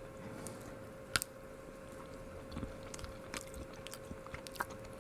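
A person biting into and chewing a chocolate with a soft fudge-like melted centre, with faint wet mouth clicks. The sharpest click comes about a second in.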